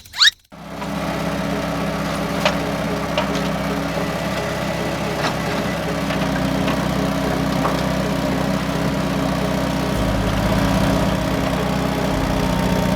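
A motor running steadily at idle, with an even hum that starts abruptly about half a second in and a few light clicks over it.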